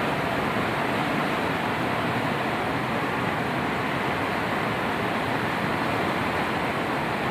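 Steady rushing of fast-flowing floodwater, an unbroken even roar.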